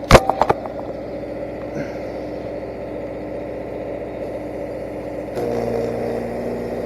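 Engine-driven welding machine's engine running steadily. A quick burst of sharp clicks comes right at the start, and about five seconds in the sound steps up louder with a new steady hum added.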